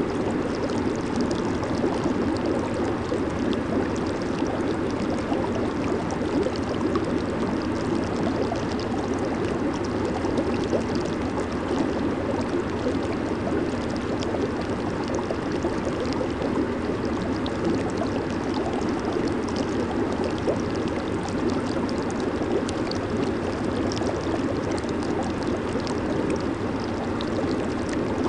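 Jacuzzi water churning steadily, a constant bubbling rush of jets and air with fine fizzing on top.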